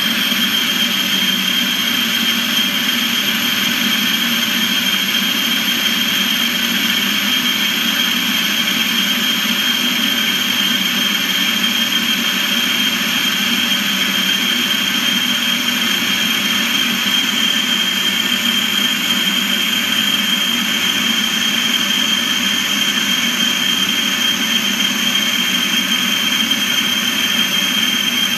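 Warco metal lathe running steadily under power while a boring bar cuts a 30 mm bore in a steel block, with a constant high whine over a low hum.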